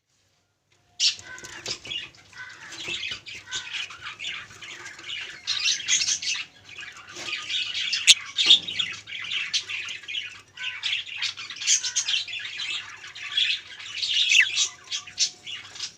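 Budgerigars chattering and squawking in a rapid, dense jumble of calls, starting suddenly about a second in.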